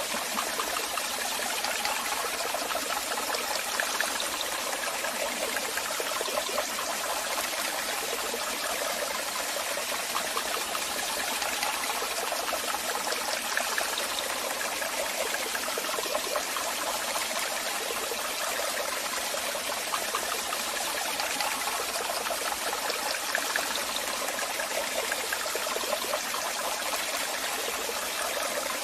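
Waterfall: water falling and splashing in a steady, unbroken rush, with small splashes flickering through it.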